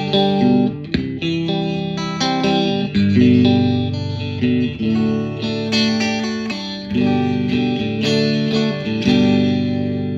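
Fender Stratocaster electric guitar with the neck and middle pickups selected together, strumming a run of chords. The chords are struck about once a second and ring on between strokes.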